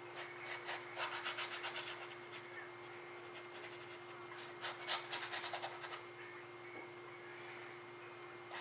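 A paintbrush scrubbing against the canvas in quick back-and-forth strokes, in two bursts: about a second in, and again around four and a half seconds in.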